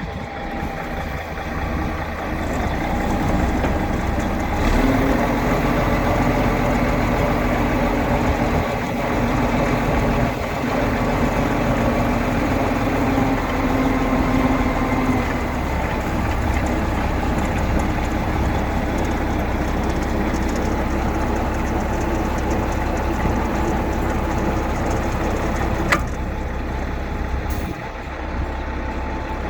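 1995 Peterbilt 377 manure truck's diesel engine running steadily. It grows louder about five seconds in, with a steady hum that drops away about fifteen seconds in, and there is one sharp click near the end.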